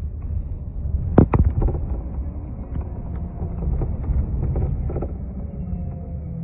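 City transit bus running, heard from on board: a steady low engine and road rumble. About a second in come two sharp knocks, followed by lighter rattles. Near the end a faint falling whine sets in.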